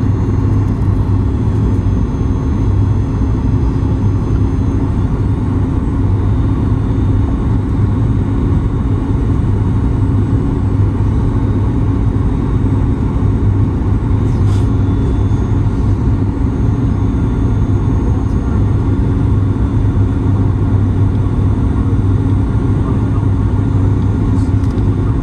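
Steady drone of engine and airflow noise inside the cabin of a Boeing 737-9 MAX, a constant low hum under an even rushing haze.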